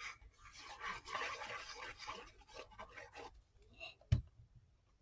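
Dry rubbing and scraping on paper for about three seconds as glue is spread across a journal page, then one sharp click about four seconds in.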